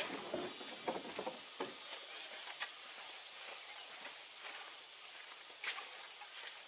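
A steady, high-pitched chirring of insects, with a few light knocks or clicks now and then.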